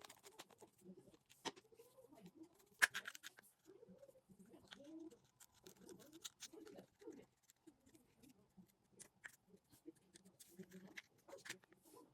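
Faint, scattered clicks and light taps of small reel parts being handled, with one louder click about three seconds in, under soft low cooing of doves.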